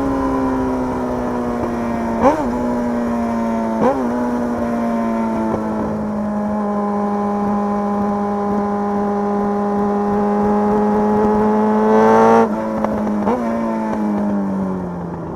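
Motorcycle engine running under steady throttle while riding, its pitch easing down slowly. It has two brief quick rises in pitch early on, a louder push about twelve seconds in, and then the pitch falls away as the bike slows near the end.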